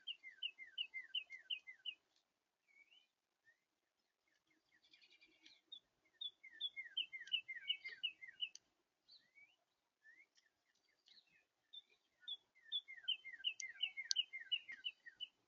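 A songbird singing three times, about six seconds apart. Each song is a quick run of repeated two-note phrases lasting about two seconds, with a few short calls in between.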